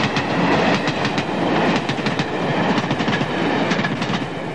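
A train running past close by, its wheels clattering over the rail joints in a quick run of clicks over a steady rumble, dying away a little near the end.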